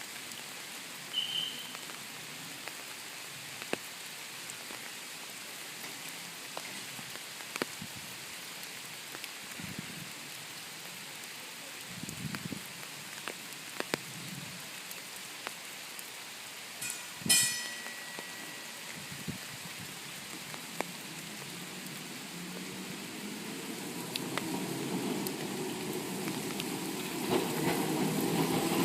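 Steady patter like light rain, with scattered drips and a brief sharp clatter partway through; over the last several seconds the low rumble of an approaching vintage tram builds steadily louder.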